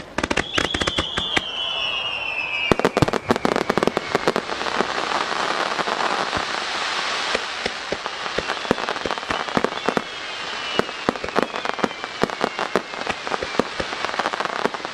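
Fireworks display: a high whistle starts at once and falls in pitch over about two seconds. Then comes a dense run of sharp pops and crackling from bursting shells and fountains, with a fainter falling whistle about ten seconds in.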